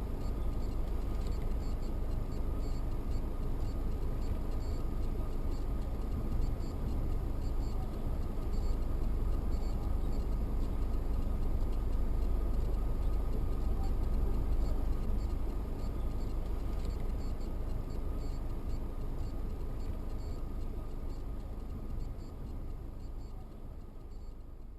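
Steady road and engine noise of a car driving, picked up by a dashcam in the cabin, with no impact; it fades out near the end.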